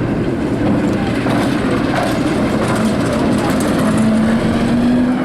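Train running on the line: a steady loud rumble, with a faint steady tone that rises a little near the end.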